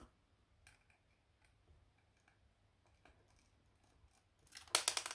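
Small screwdriver and plastic camera parts being handled while small screws are undone: scattered faint clicks, then a quick rattle of louder clicks near the end.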